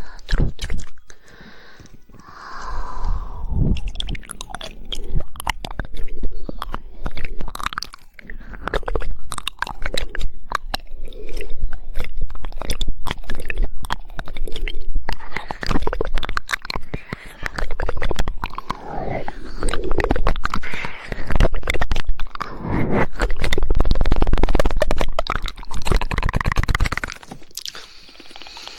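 Close-miked ASMR mouth sounds: dense, rapid tongue clicks mixed with wet mouth noises, coming in swells with short lulls.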